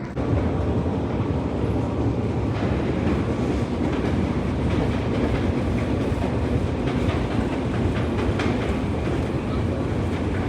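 Budapest metro train running on its rails, a loud steady low rumble with faint clicks from the wheels.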